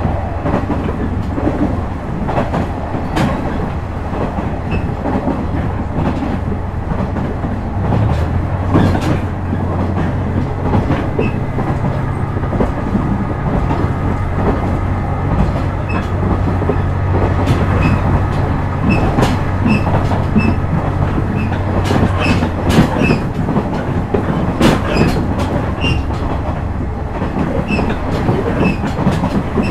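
Running sound heard inside a KiHa 126 series diesel railcar in motion: the diesel engine drones steadily, louder from about eight seconds in until it drops back around twenty seconds. The wheels clack rhythmically over rail joints throughout.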